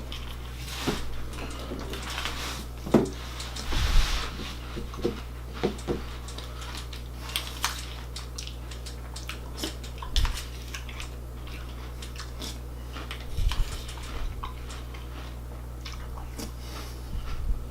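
Crunchy breakfast cereal being eaten from a bowl: irregular crunching and chewing, with scattered clicks and clinks of a spoon against the bowl and a few dull knocks.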